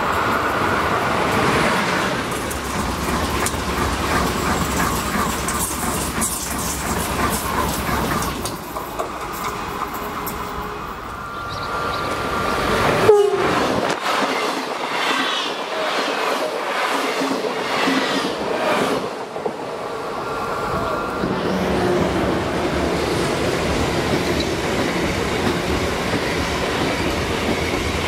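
Electric passenger trains passing close by at speed, one after another: a Rodalies electric multiple unit and a string of Talgo coaches, with steady rushing wheel-on-rail noise and clickety-clack over rail joints. A short high two-note horn sounds shortly before the middle.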